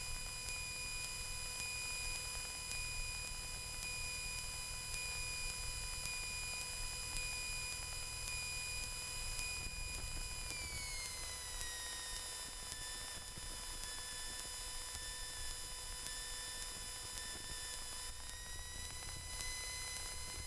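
Cessna 172 cockpit sound through the intercom: a faint, low engine rumble with thin steady electrical whine tones. The upper whine drops in pitch about halfway through and rises again near the end as the engine speed changes.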